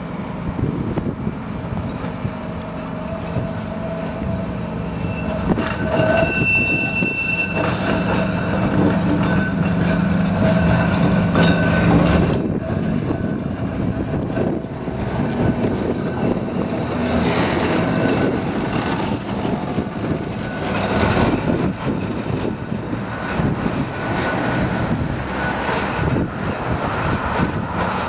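Heritage electric tram running along the rails, with a steady hum that is loudest in the first half and a brief high wheel squeal about six seconds in.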